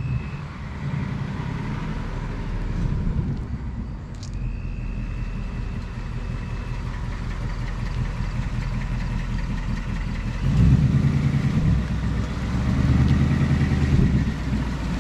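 Ford Mustang GT's 5.0-litre V8 running as the car drives slowly up, growing louder about ten and a half seconds in.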